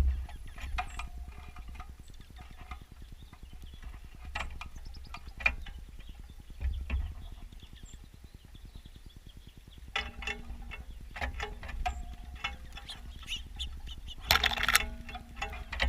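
Birds at a bird feeder close to the microphone: irregular clicks and scratches of feet and beaks on the feeder over a low wind rumble, with a short louder flutter about fourteen seconds in.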